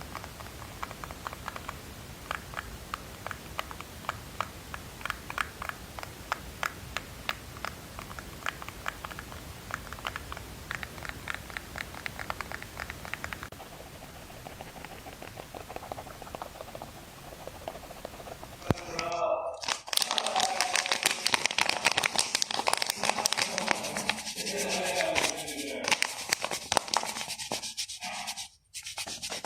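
Close-miked ASMR triggers: a fast run of light taps or clicks that fades, then, about two-thirds of the way in, much louder crinkling and scratching.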